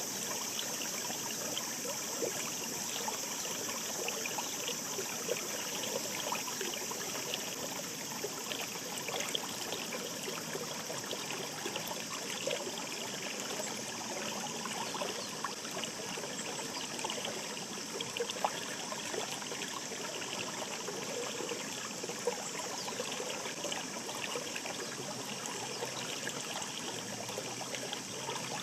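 Shallow mountain stream babbling over stones: a steady rush of water, dotted with many small splashes and gurgles.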